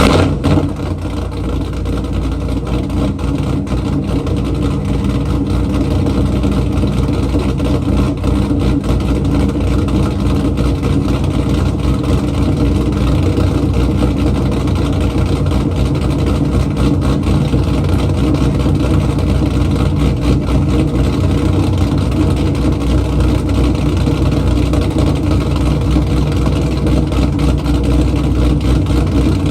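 Cammed 1999 Chevy Camaro engine on a cold start: a brief loud surge right at the beginning, then a steady fast idle through the exhaust.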